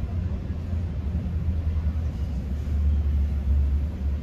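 GO Transit commuter train running along the track, heard from inside a passenger coach: a steady low rumble of wheels and running gear that grows a little louder past the middle.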